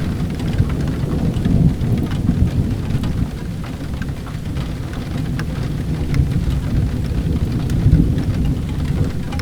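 Steady rain over a continuous low rumble, mixed with many short, sharp crackles and pops from a wood fire burning in a fireplace.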